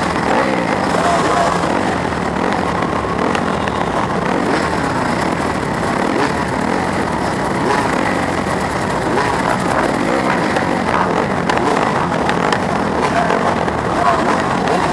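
Several 250cc four-stroke motocross bikes racing together, their engines revving up and down constantly over one another, heard from onboard one bike in the pack.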